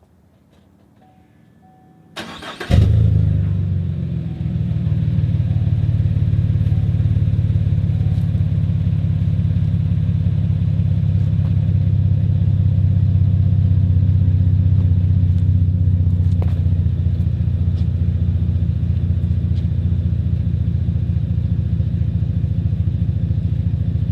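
A 2017 Chevy Silverado's 4.3-litre V6 starting about two seconds in: a brief crank, then the engine catches with a quick rise in revs and settles into a steady idle. It runs through a dual exhaust fitted with cheap eBay 'racing mufflers', and its tone is a lot deeper.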